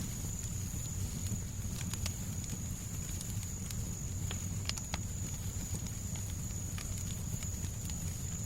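Crackling fireplace: irregular sharp pops and snaps over a steady low rumbling noise bed, with a thin steady high hiss above.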